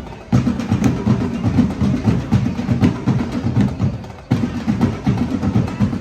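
Drum corps of snare and bass drums playing a fast, dense cadence, with short breaks in the playing near the start and about four seconds in.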